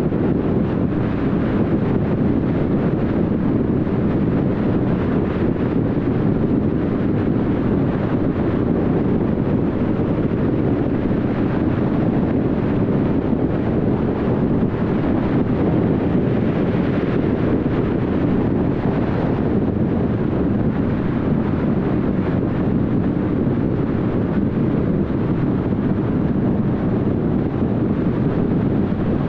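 Steady road noise from a car driving at speed: tyres on the road and wind, with no change in level.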